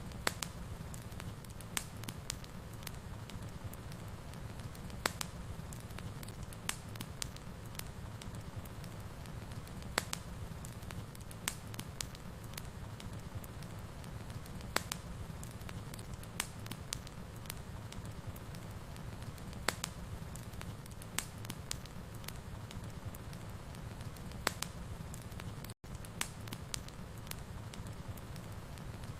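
Wood fire burning in a fireplace: a steady low rumble with sharp crackles and pops scattered irregularly, about one every second or two. Near the end the sound cuts out for a split second.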